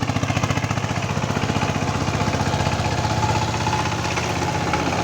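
Sifang 12-horsepower power tiller's single-cylinder diesel engine chugging steadily with a fast, even beat while ploughing soft, wet ground.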